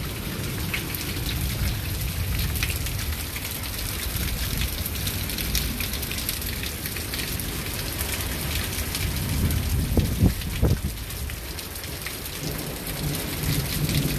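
Heavy wind-driven rain pouring down in a summer thunderstorm, with a low rumble of thunder underneath. Two sharp taps about ten seconds in.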